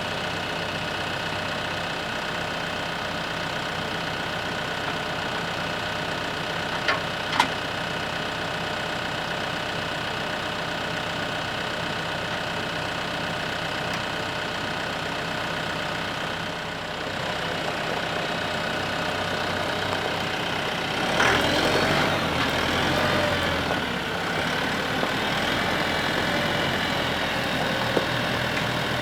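TYM T654 compact utility tractor's diesel engine running steadily. There are two short clicks about seven seconds in, and the engine gets louder, its pitch wavering, about two-thirds of the way through.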